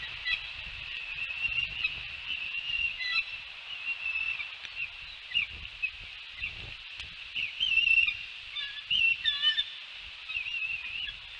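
Birds calling: many short, wavering high chirps over a steady high-pitched chorus, busiest about eight to ten seconds in, with low rumbles underneath.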